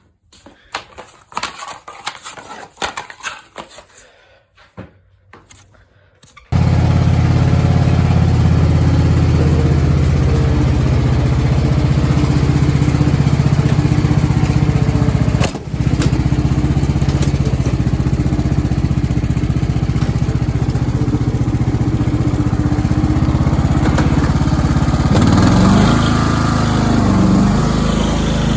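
Scattered clattering knocks and rattles, then about six seconds in a small petrol engine starts running loudly and steadily, cutting out for a moment near the middle before carrying on.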